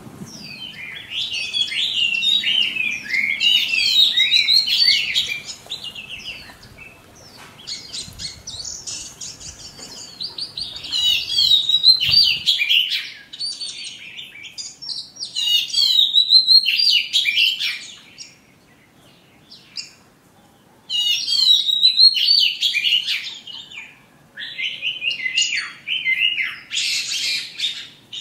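Small birds chirping and twittering in quick, high phrases that come in bursts with short pauses between them.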